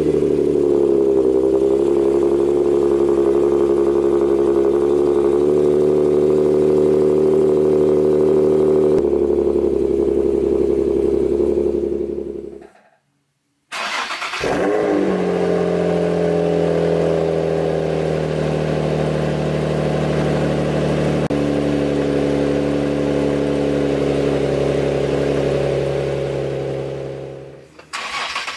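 Two Nissan VQ V6 engines with aftermarket exhausts, one from a Nissan 350Z and one from an Infiniti G37, each starting up. Each flares high on starting and then settles to a steady idle. There is a brief silence about 13 seconds in, between the two cars.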